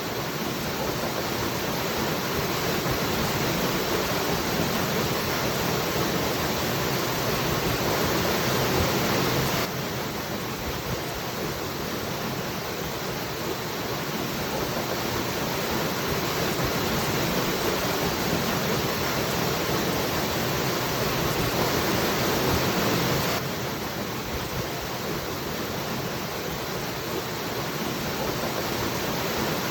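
Waterfall: a steady, full rush of falling water. The level drops suddenly about a third of the way in and again near the end, then builds back gradually.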